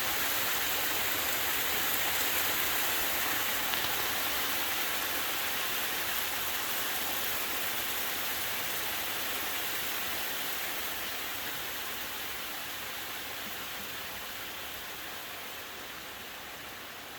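Hailstorm: hail and rain pelting down in a dense, steady hiss that gradually eases over the second half as the short storm dies away.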